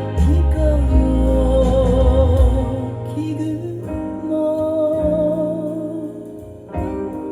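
Recorded pop ballad played through vintage JBL Vertical Harkness loudspeakers: a male singer holds notes with vibrato over instrumental backing, and the heavy bass drops out about three seconds in.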